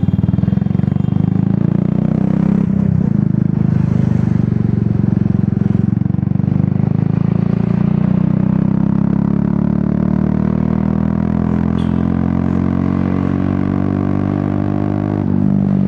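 Royal Enfield Classic 350's single-cylinder engine running through an aftermarket Dolphin exhaust while riding, with a fast, even exhaust pulse. There is a brief break in the note about three seconds in, and the engine pitch climbs steadily through the second half as the bike gathers speed.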